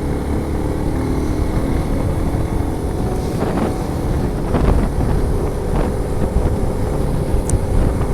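Wind buffeting the microphone of a motorcycle rider at speed, with the motorcycle's engine running underneath.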